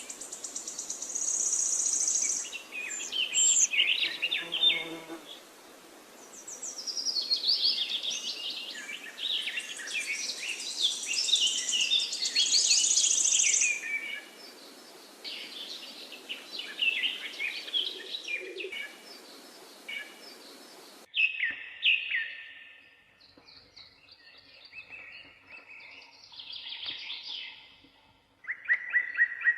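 A chorus of wild songbirds, many overlapping chirps and trills, with a high buzzing trill twice, near the start and about midway. About two-thirds of the way through, the background hiss and the dense chorus cut off suddenly, and sparser, quieter bird calls follow, as from a spliced recording.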